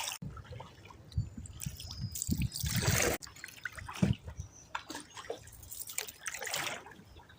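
Paddles working canal water: splashes and water trickling and dripping off the blades, with two longer swishes of a stroke.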